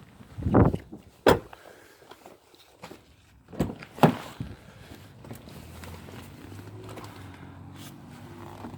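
A few sharp knocks and thumps in the first half, then a low steady hum with several pitched tones from about halfway on.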